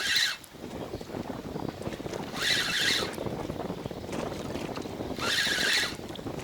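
Spinning reel being cranked in short bursts of about half a second, three times, roughly every three seconds: the pauses between bursts are a stepped jig retrieve of a soft-plastic lure. Wind and water lapping against the boat run underneath.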